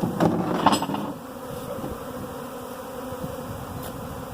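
A swarm of honey bees buzzing, a steady hum that is louder for about the first second.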